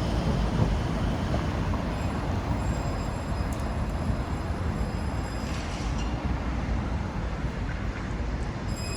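Street traffic: a steady low rumble of vehicles on a city road.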